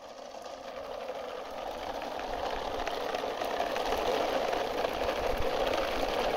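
A steady engine-like mechanical hum that fades in and grows louder over the first few seconds, then holds even.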